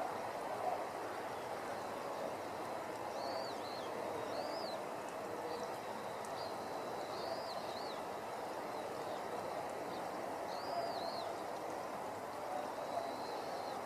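Birds giving short chirping calls now and then over a steady outdoor background hiss.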